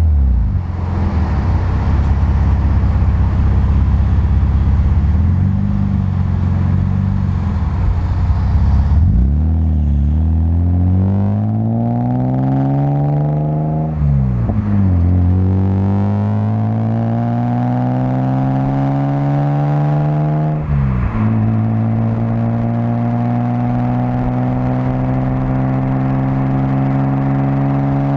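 Exhaust of a 1997 Ford Probe's 24-valve V6 through a Magnaflow rear muffler. It runs with a low, steady rumble, then from about nine seconds in accelerates with rising pitch. The pitch drops twice, at what sound like gear changes, and climbs again after each.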